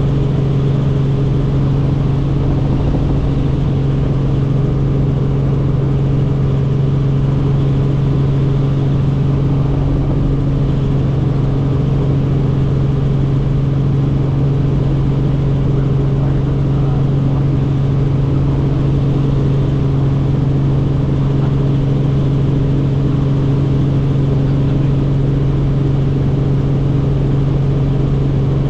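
Helicopter in flight: a steady engine-and-rotor drone with a strong low hum and overtones, holding constant throughout.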